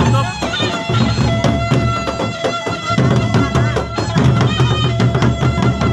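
Gendang beleq ensemble playing: large drums beating steadily under a held, wavering melody line.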